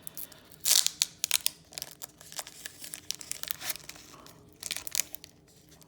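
Foil booster pack wrapper being torn open by hand, with sharp crinkling and ripping in irregular bursts, loudest about a second in.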